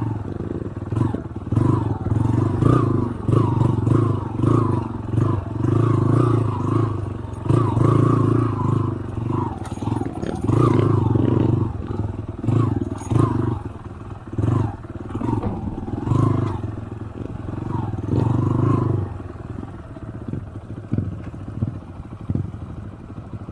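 Motorcycle engine on an off-road trail, the throttle opened and shut in repeated surges about once a second, with rattling over rough ground. The surges stop near the end, leaving it running more quietly.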